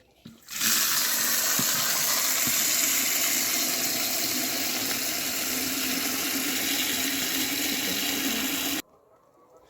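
Steady rush of running water, starting about half a second in and cutting off abruptly near the end.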